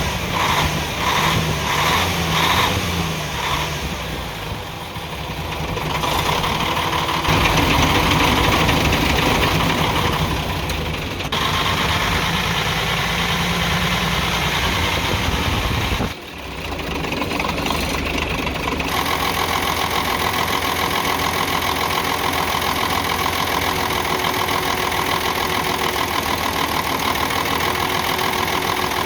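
Nissan PF6 six-cylinder diesel engine of a UD truck running with a misfire: its number 5 injection-pump plunger delivers no diesel, so one cylinder is dead. The running is uneven and pulsing at first, then settles to a steady note after a brief sudden drop just past halfway.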